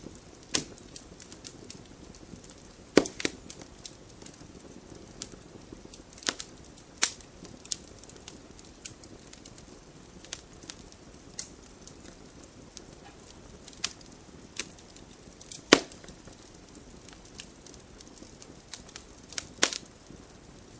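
Wood fire burning in a fireplace: a soft steady hiss with irregular crackles and sharp pops, the loudest about three seconds in and near sixteen seconds.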